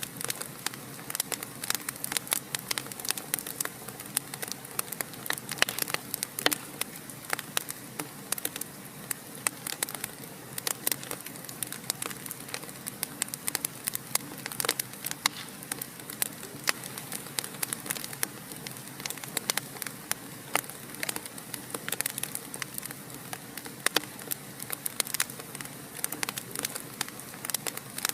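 Wood fire in a fireplace crackling steadily, with many small irregular pops and snaps over a soft hiss of burning.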